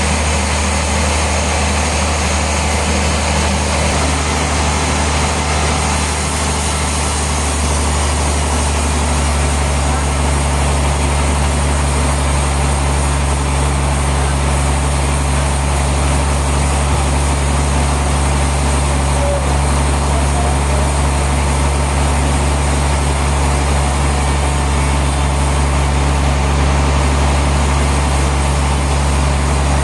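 Heavy sawmill machinery engine running steadily: a constant low drone with a steady wash of mechanical noise over it.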